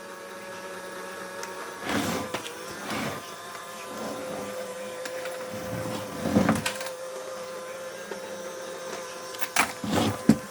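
Small robot vacuum running with a steady motor whine, with a few louder scuffs or bumps about 2, 3, 6.5 and 10 seconds in.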